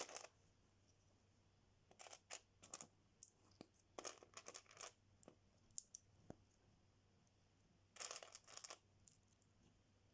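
Faint clicks and rustles of small plastic Lego pieces being handled and pressed together, in short clusters near the start, about two and four seconds in, and again near the end.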